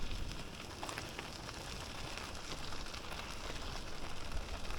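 Steady rushing road noise with faint crackles and ticks, from a bicycle being ridden: tyres rolling on the road and wind across the microphone.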